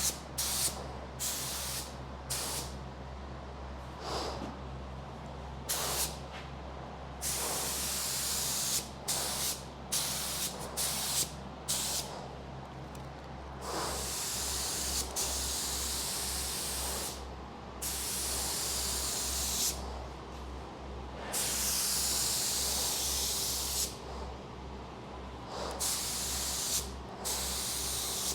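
Air spray gun spraying epoxy primer in repeated bursts of hiss, some brief and some held for two or three seconds, over a steady low hum that begins to pulse about halfway through.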